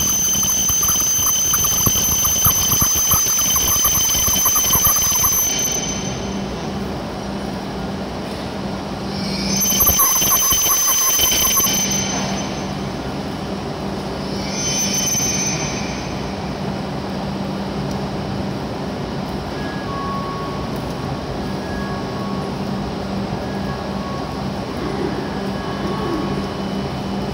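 W7 series Shinkansen rolling slowly into the platform and stopping. A high steady whine runs for the first five seconds or so. Louder high-pitched bursts come about ten and fifteen seconds in as it halts, and then a steady low hum while the train stands.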